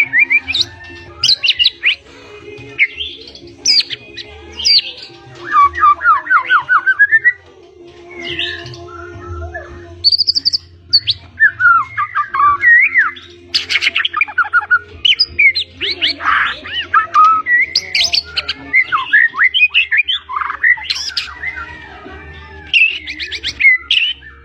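White-rumped shama (murai batu) singing hard in a rapid, varied stream of loud whistles, fast trills and sweeping notes, packed with mimicked phrases, with only brief pauses.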